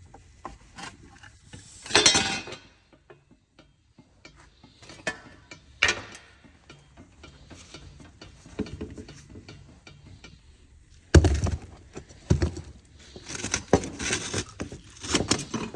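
Metal hand tools clinking and knocking on a car's exhaust, in irregular clicks and clatter with a louder knock about eleven seconds in and quicker clatter near the end.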